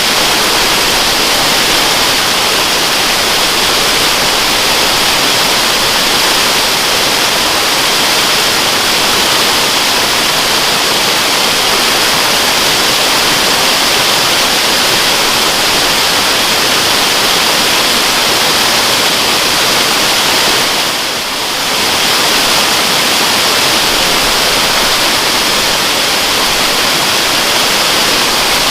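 Waterfall rushing: a steady, dense hiss of falling water, strongest in the upper range, dipping briefly about two-thirds of the way through.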